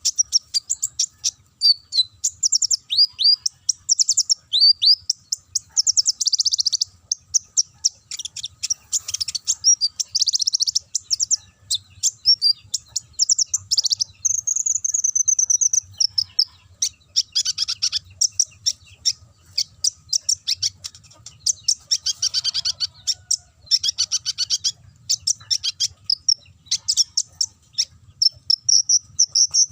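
Kolibri ninja (konin) singing a fast, high-pitched run of chips and trills in canary style, phrase after phrase with only short breaks.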